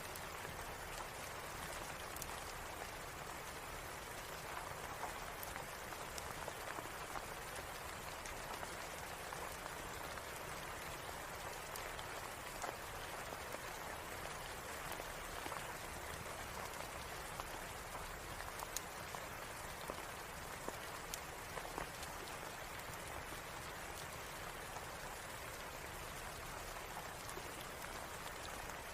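Steady rain falling, with scattered sharp crackles and ticks from a fireplace at irregular intervals.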